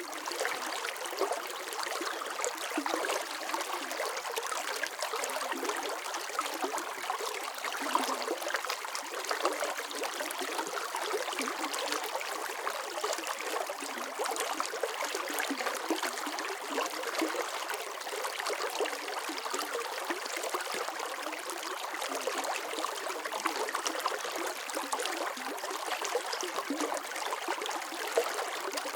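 Running water flowing and trickling steadily, with small splashes and gurgles.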